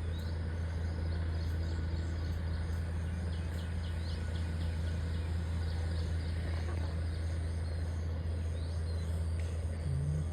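A steady low rumble, with faint short bird chirps now and then over it.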